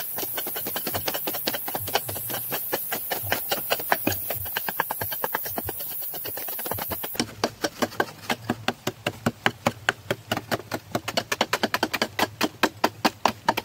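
Rapid series of sharp clicks or taps, about six a second, over a steady hiss; about seven seconds in the hiss drops away and the taps stand out clearly.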